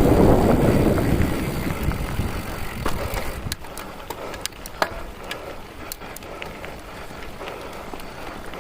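Wind buffeting the microphone, loud at first and dying away over the first three seconds, followed by scattered sharp clicks and ticks over a quiet background.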